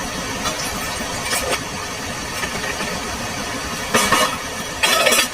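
Steady low rumble of strong storm wind with rain, broken by a few short, louder bursts of noise, one about a second in and more near the end.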